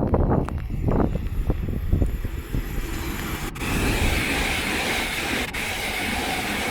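Two coupled Class 387 electric multiple units passing through the station: a steady rushing train noise that builds about three seconds in, with a couple of sharp clicks.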